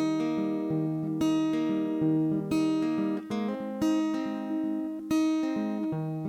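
Acoustic guitar strumming chords in an instrumental break, with no singing. A chord is struck about once a second and left to ring out.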